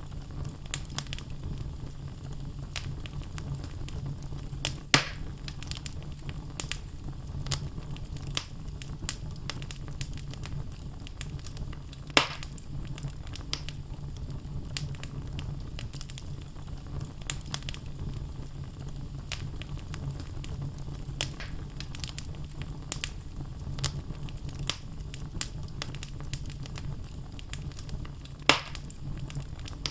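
Wood logs burning in a fireplace, crackling with frequent small snaps over a steady low rumble of the flames. Three louder pops come at about 5, 12 and 28 seconds in.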